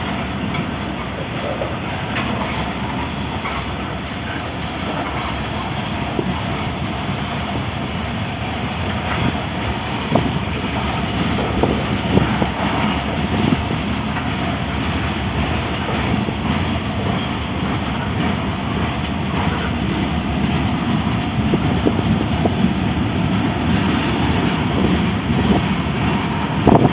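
Freight cars of a CSX manifest train (covered hoppers, gondolas and tank cars) rolling past: a steady rumble of steel wheels on rail, with scattered clicks and knocks, growing a little louder toward the end.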